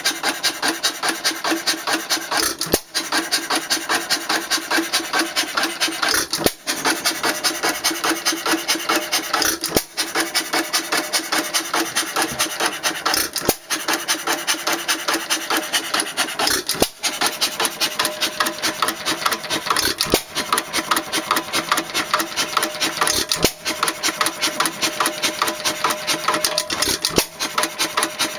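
1917 Empire 2½ hp hit-and-miss engine running, a fast, even mechanical clatter with a brief break about every three and a half seconds.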